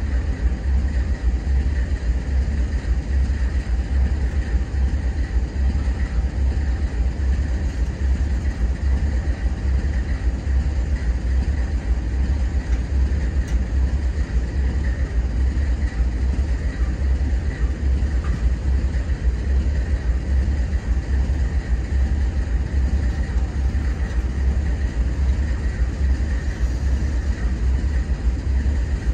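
Intermodal freight train's spine and well cars rolling past at steady speed: a continuous low rumble of steel wheels on the rails.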